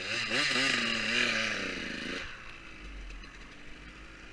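Motocross bike engine revving up and down, then dropping away after about two seconds to a faint low rumble.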